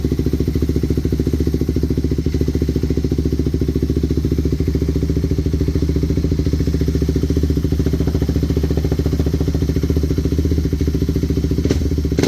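Kawasaki KFX450R quad's single-cylinder four-stroke engine idling steadily on its first start after a rebuild, with one short clack near the end.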